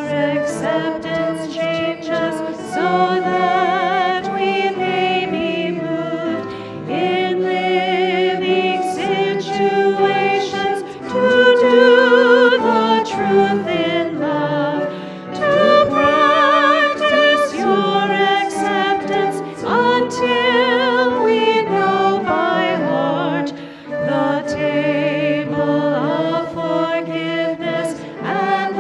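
Choir singing a sacred piece, the voices held on sustained notes with vibrato.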